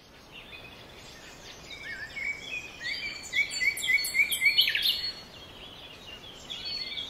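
Songbirds singing and chirping, several overlapping calls of quick repeated notes and rising and falling whistles, fading in over the first few seconds.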